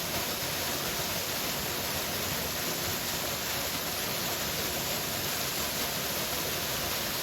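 A powerful waterfall rushing steadily: an even, unbroken hiss of falling water.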